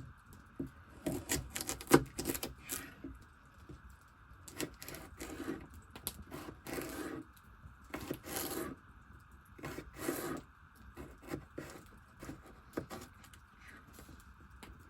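Knife cutting carrots on a wooden cutting board: irregular clicks and scrapes, with handling and rubbing of the vegetables.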